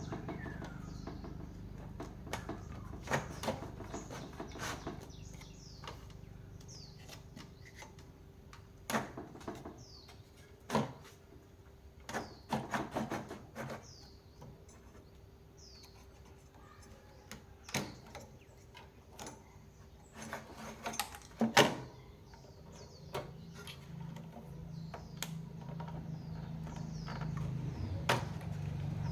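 Irregular clicks and knocks, loudest about two-thirds of the way through, over short high falling chirps that repeat in the background.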